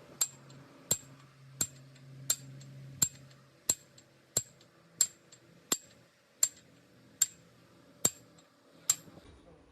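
A hammer striking steel in steady, even blows, about three every two seconds, each with a short metallic ring.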